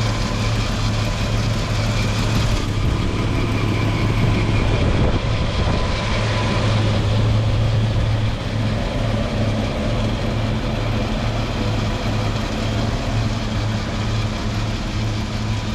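Toyota FJ engine idling steadily, heard up close; it runs evenly with no misfire.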